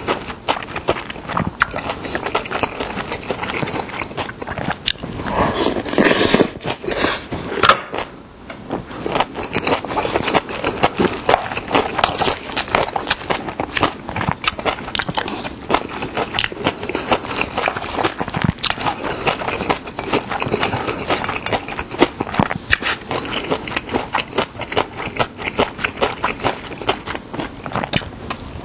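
Close-miked chewing of young-radish (yeolmu) bibimbap, a dense run of wet clicks and crunches, mixed with a wooden spoon scraping and stirring the rice in a stainless steel bowl. The sounds are loudest about six to eight seconds in.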